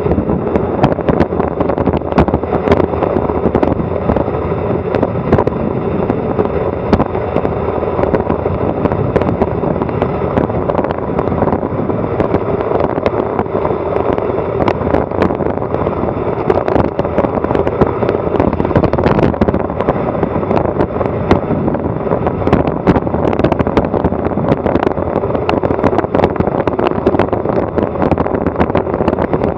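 Loud, steady rush of wind and road noise on a Garmin Virb Elite action camera riding a bicycle down a fast descent, with continual crackling clicks from vibration and wind buffeting the microphone.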